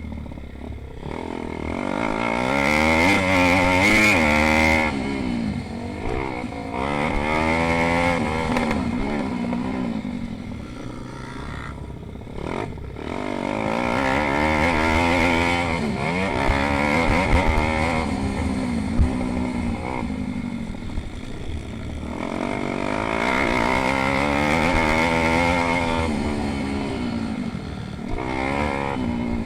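Pit bike engines racing, revving up and down through the gears, the sound swelling and fading about four times as the bikes come past.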